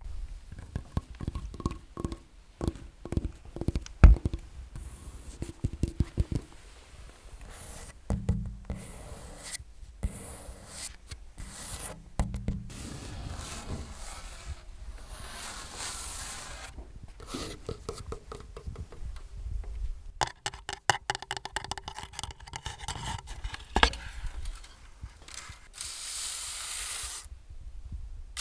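Close-miked ASMR trigger sounds: quick taps and knocks mixed with scratching and scraping, in short segments that cut off abruptly.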